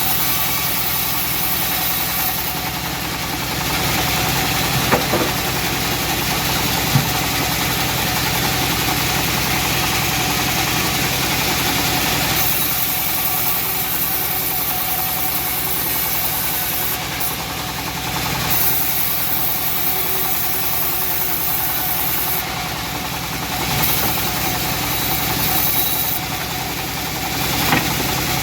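Engine-driven homemade bandsaw mill running steadily, with a constant engine hum and a hiss that comes and goes, plus a few short clicks.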